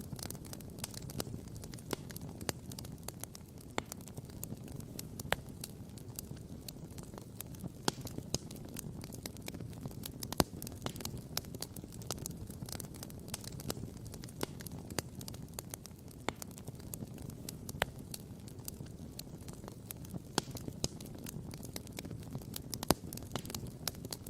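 Wood campfire crackling and popping constantly, with a few sharper, louder pops, over a steady low rumble.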